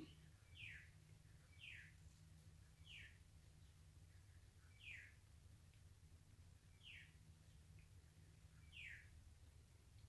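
Faint bird calls: a short falling chirp repeated six times, one to two seconds apart, over a low steady hum.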